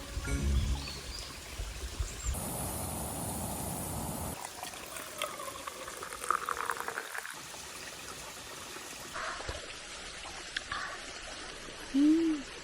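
Liquid being poured and trickling into a cup or bowl, over a few short cut-together clips. A brief hum-like vocal sound comes near the end.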